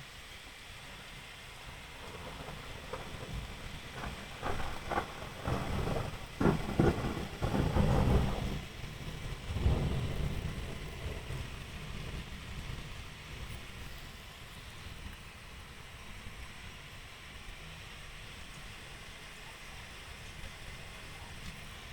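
A thunderclap: a crackling, rolling rumble builds a few seconds in, surges several times to its loudest near the middle, then rumbles away. A steady hiss of rain runs beneath it.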